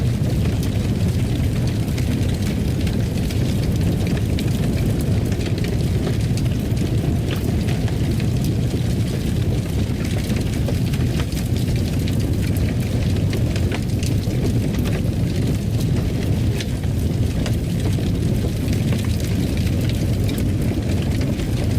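Fireplace fire burning: a steady low roar with many faint scattered crackles and pops.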